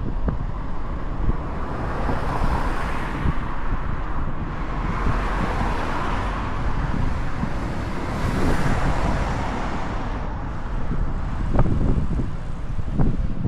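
Wind buffeting the microphone over steady road noise while riding, with traffic noise swelling and fading about three times as vehicles pass.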